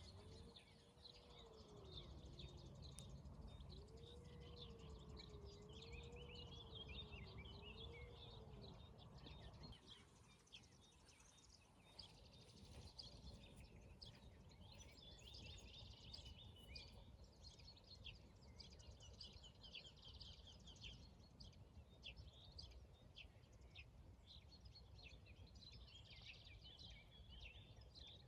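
Faint morning chorus of many small birds chirping and twittering throughout, over a low rumble that drops away about ten seconds in. For the first nine seconds or so, a faint tone wavers slowly up and down underneath.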